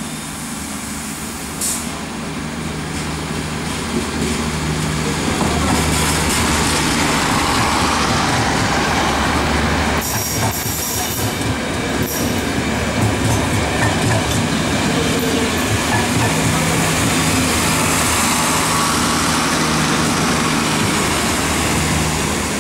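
Greek railways diesel multiple unit passing close: the diesel engine runs under the rolling of the wheels on the rails, getting louder about five seconds in and staying loud as the coaches and then the cab end go by. A brief high wheel squeal and a few sharp clicks come around ten seconds in.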